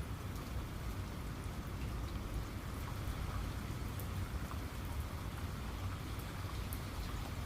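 Rain falling steadily, with scattered sharp ticks of individual drops striking a surface over a low, even rumble.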